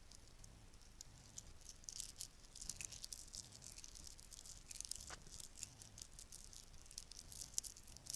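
Bracelets handled close to the microphone, giving many small, irregular, high clinks and clicks.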